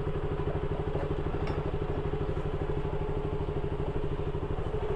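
KTM Duke 200's single-cylinder engine idling steadily, with a fast, even pulse.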